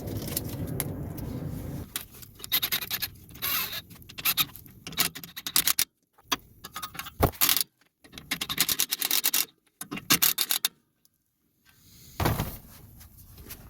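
Metal clinking, scraping and rattling of hand tools on exhaust pipe and clamp hardware during fitting, in short bursts broken by abrupt gaps of silence.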